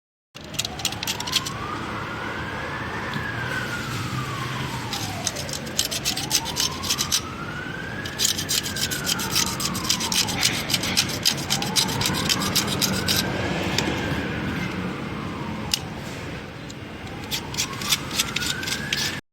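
A siren-like wail rising and falling slowly, one sweep about every five to six seconds, over a steady scratchy rubbing noise with crackles. It starts and stops abruptly.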